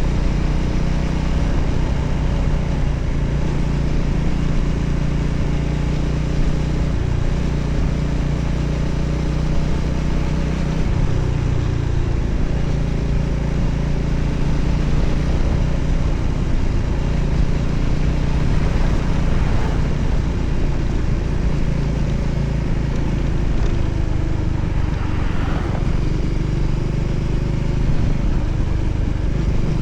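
Voge 300ACX motorcycle's single-cylinder engine running steadily under way, with wind and road noise over it; the engine note changes about a third of the way in.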